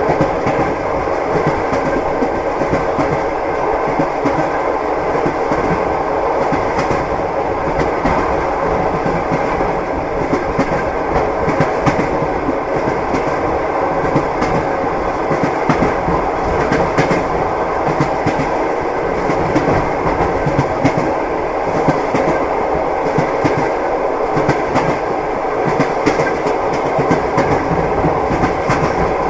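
Train wheels clattering over the rail joints in a steady run of clacks over the continuous rumble of the moving carriage, heard from inside a passenger compartment.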